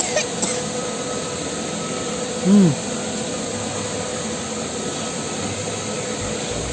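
Steady hissing noise with a faint steady hum underneath, and one short vocal sound that rises then falls about two and a half seconds in.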